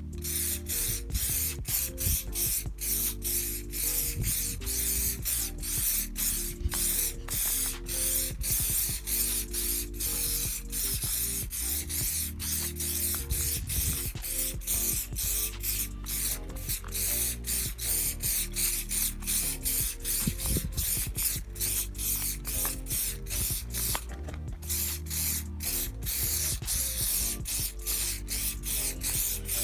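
Aerosol tin of Muc-Off Fabric Protect waterproofing spray hissing in quick short bursts with brief gaps between, as it is sprayed onto fabric trousers.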